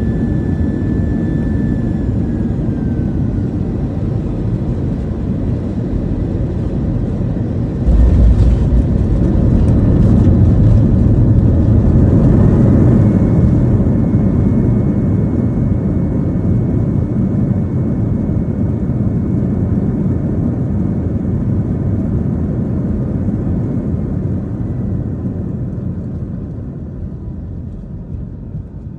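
Airbus A320 landing, heard from inside the cabin. Steady engine and air noise gives way to a sudden heavy rumble as the wheels touch down about eight seconds in. The jet engines then spool up with a rising whine for reverse thrust, hold, and wind down as the plane slows on the runway.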